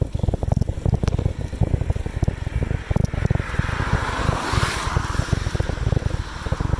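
Wind buffeting the microphone while cycling, a constant gusty rumble. About halfway through a vehicle passes, its hiss swelling to a peak and fading away.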